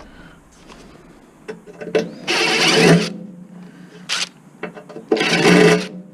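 Power drill-driver running in two short bursts, each under a second, as it backs out a screw from a table saw, with a sharp click between them.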